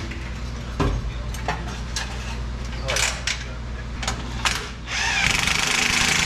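Tools tightening an exhaust clamp: a string of separate ratchet clicks and knocks, then from about five seconds in a power tool runs steadily for a couple of seconds as the clamp is torqued tight.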